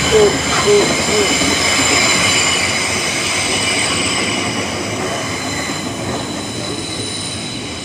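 Electric commuter train moving along the platform, its wheels giving a steady high squeal over a low rumble that slowly fades.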